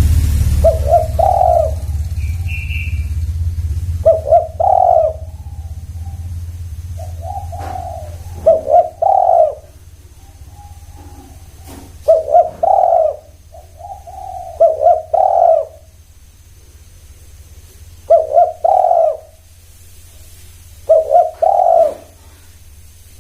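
Spotted dove (tekukur) cooing: a short phrase of a few coos repeated roughly every two to three seconds. A low rumble sits under the first several seconds and then fades.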